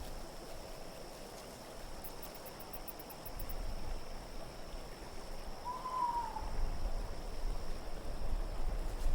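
Steady, soft winter wind ambience with a faint high hiss. About six seconds in, a single short animal call falls in pitch.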